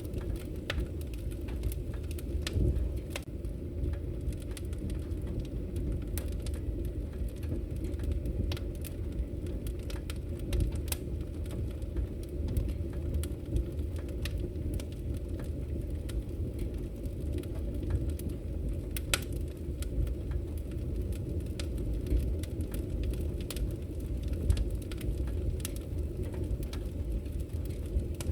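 Wood fire burning in a fireplace, crackling: a steady low rumble of flame with many scattered sharp pops and snaps.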